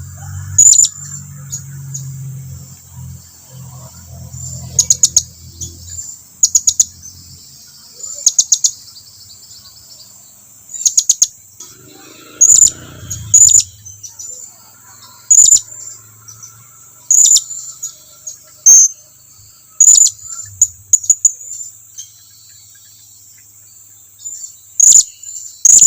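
Blue-crowned hanging parrot (serindit) giving short, high-pitched chirps, singly or in quick runs of two or three, every second or two: contact calls to draw other serindits in close.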